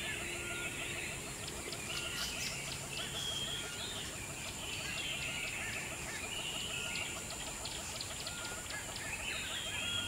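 Birds chirping and whistling in short, repeated calls.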